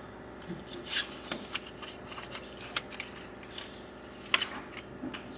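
Hand tools clicking, tapping and scraping against metal parts while a fan belt is being changed on a pickup engine, a few sharp taps with the loudest about four seconds in.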